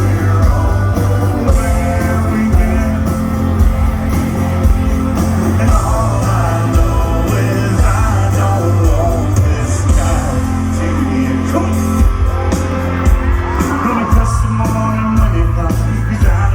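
Live band playing loud country-rock through a concert sound system, with a heavy steady bass and a lead singer over it.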